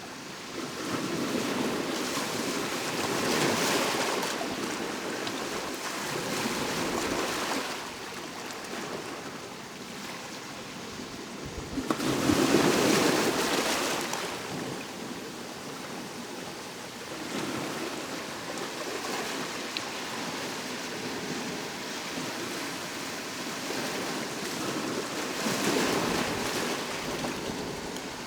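Sea waves breaking and washing up on the shore, surging and falling back every few seconds, the loudest one breaking sharply about twelve seconds in.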